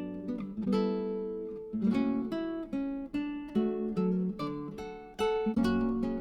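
Background music: acoustic guitar picked and strummed, notes ringing and fading one after another.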